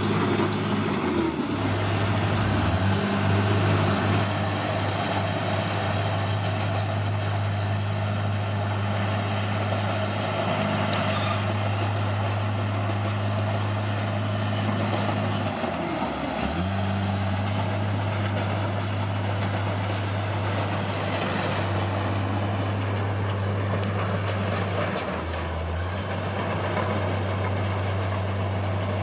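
Caterpillar D6R bulldozer's diesel engine running steadily at working revs, its note dipping briefly three times: early on, about halfway through and near the end.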